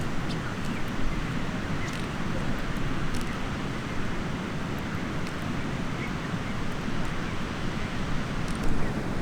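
Wind buffeting the microphone: a steady rumbling hiss, heaviest in the lows, with a few faint light clicks scattered through it.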